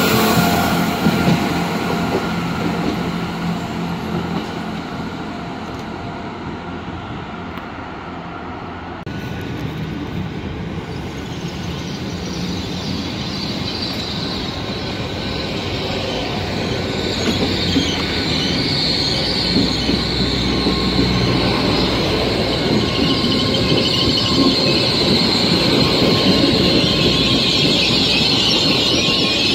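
A departing train's rumble fades over the first several seconds. Then a GWR Hitachi Intercity Express Train runs in along the platform, its rumble growing louder with a high, steady wheel squeal that builds through the second half.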